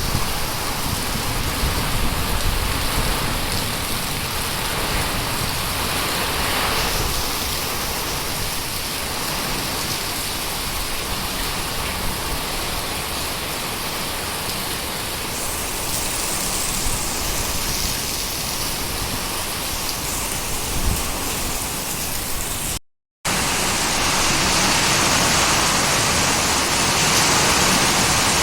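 Heavy rain pouring steadily in a storm. It breaks off for an instant about two-thirds of the way through and comes back louder.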